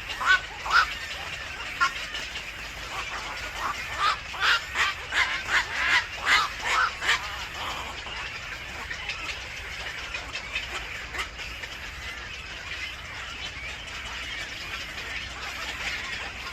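A bird calling in a rapid series of short, sharp notes, twice in quick bursts, the second run lasting about four seconds, then the calls stop and only a steady background hiss remains.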